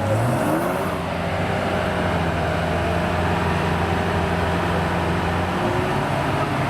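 A car engine under power. Its pitch dips and climbs again in the first second, then holds a steady drone for several seconds, shifting again near the end.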